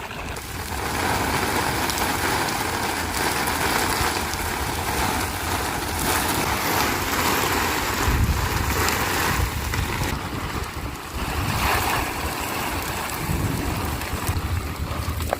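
Strong blizzard wind blowing in gusts, rising and falling every second or two, with low rumbling wind buffeting on the microphone.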